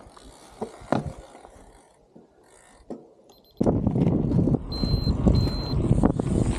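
Wind buffeting the microphone starts suddenly about halfway through and stays loud, after a few faint clicks. Two short, high-pitched electronic beeps sound over the wind.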